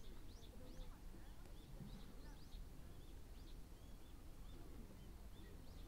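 Faint birdsong: many short, high chirps repeating one after another over low background noise.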